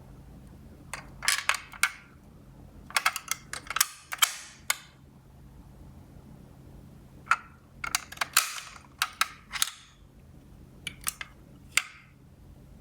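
Small die-cast toy cars clattering and knocking against each other and a cardboard surface, in four short bursts of quick clicks with quiet gaps between.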